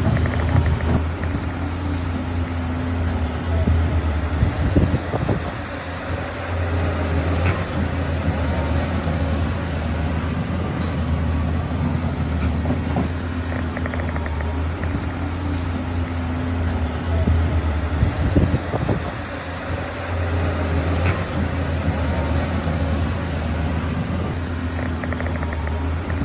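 Heavy diesel engine of a Shantui bulldozer running steadily under load, its note shifting a few times, with a few metallic clanks.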